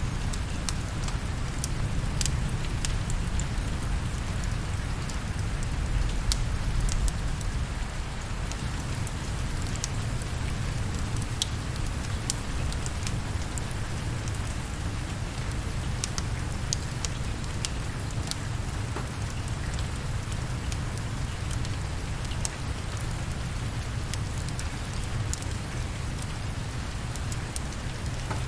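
Steady rain over a deep rumble, with the sharp pops and crackles of a wood fire scattered throughout. The rumble swells briefly about six seconds in.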